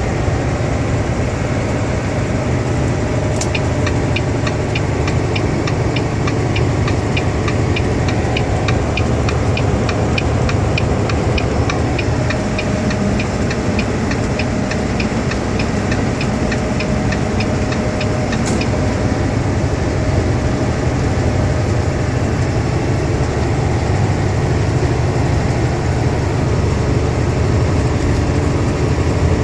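Steady engine and road drone of a semi truck on the move. A regular ticking starts with a sharp click about three seconds in and runs for about fifteen seconds, then stops with another sharp click.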